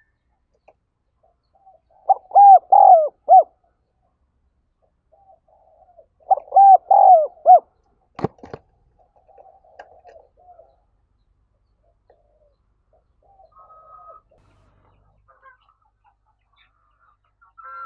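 Spotted dove cooing: two loud phrases of several quick, arched coos, about two seconds in and again about six seconds in. A sharp knock follows the second phrase, with fainter bird calls in between.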